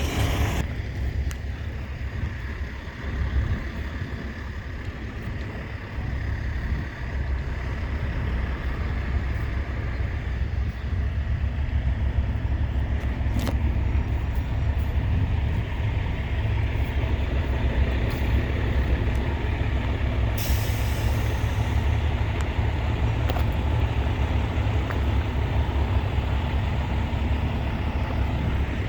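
Large truck engine running with a steady low rumble. A short hiss of released air comes about two-thirds of the way through.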